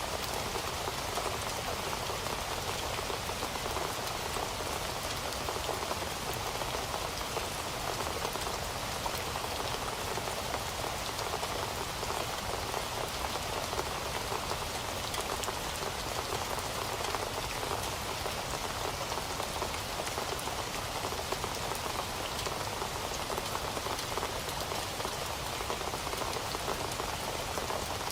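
Heavy rain falling steadily, a dense even patter of drops hitting a surface with no letup.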